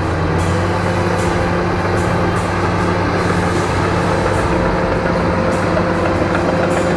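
Bulldozer's diesel engine running steadily under load while cutting into earth, with short sharp clanks about every half second.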